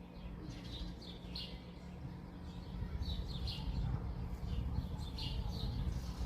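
Small birds chirping: short high chirps in ones and twos, repeating every half second or so, over a steady low rumble.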